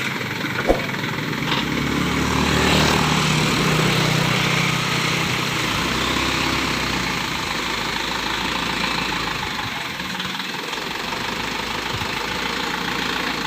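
Dump truck engine running steadily, rising slightly for a few seconds and settling back, with one sharp click about a second in.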